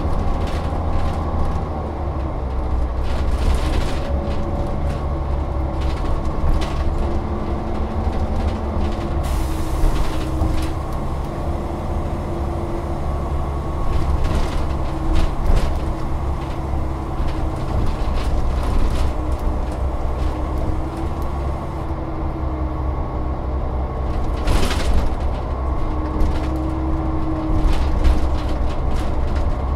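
Volvo Olympian double-decker bus running on the road, its diesel engine drone steadily rising and falling in pitch as it accelerates and changes gear, with body rattles and clicks. A short burst of hiss about 25 seconds in.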